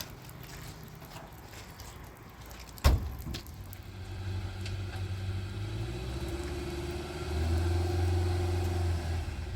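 A single sharp knock about three seconds in, then a low, steady motor hum that starts a second later and grows louder near the end.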